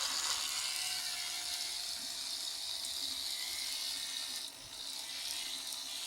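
Small electric motor and gear train of an Atlas Santa Fe model locomotive running on a test run, a steady high whirr that dips briefly past the middle; the repaired drive, with its replacement white gear, is running smoothly.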